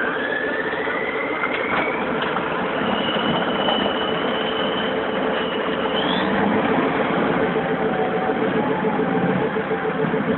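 Diesel engine of a tracked armoured personnel carrier running hard under throttle while fording a river, with a steady pulsing drone and a high whine that rises in pitch over the first two seconds and then holds.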